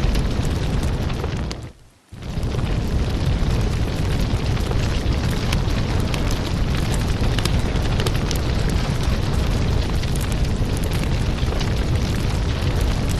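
Firewood burning, a steady rush of flame with frequent sharp crackles and pops. About two seconds in the sound fades out briefly, then comes back.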